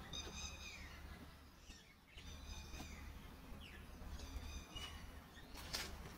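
A bird calling in garden trees: a short call of several stacked high notes, repeated three times about two seconds apart, with brief falling whistles in between. A short burst of hiss near the end.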